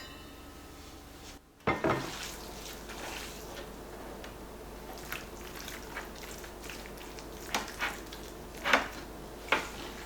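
Kitchen handling sounds: food storage containers and utensils being handled and set down, a series of light clicks and knocks with a soft rustle between them.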